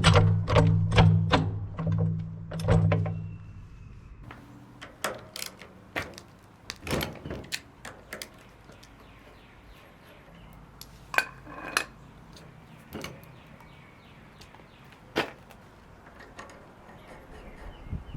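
Background music with a steady low beat that stops about three seconds in, followed by scattered metallic clicks, clinks and knocks of hand work. A short squeak comes about eleven seconds in.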